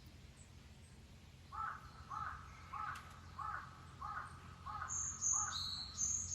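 Wild birds calling: one bird gives a series of seven short, evenly spaced calls, and near the end another bird adds high, thin whistled notes.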